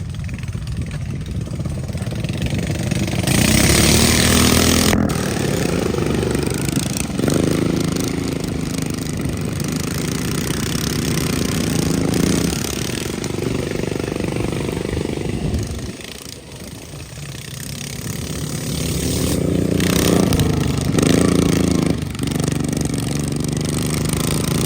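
Riding lawn mower engines running hard, their pitch rising and falling again and again as the throttle and speed change. The sound dips about two-thirds of the way through, then builds back up.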